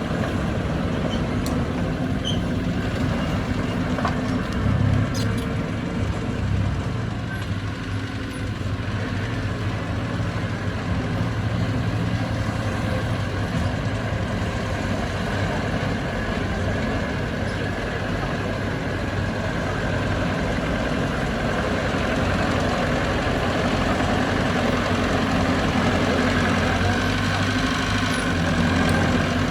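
Heavy diesel engine of earthmoving machinery running steadily, its low hum shifting in engine speed a few times, around five seconds in and again near the end.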